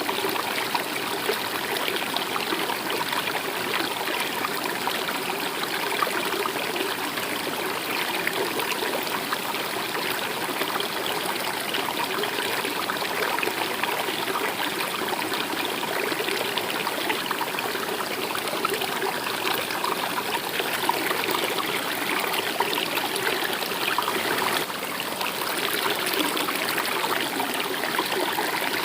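A stream running and trickling, steady throughout.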